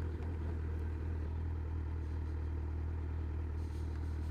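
Honda CBF1000 motorcycle's inline-four engine running steadily with an even low hum.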